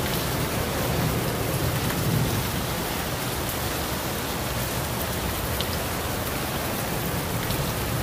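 Heavy torrential rain pouring steadily, a dense even hiss, with a low rumble under it for the first two seconds or so.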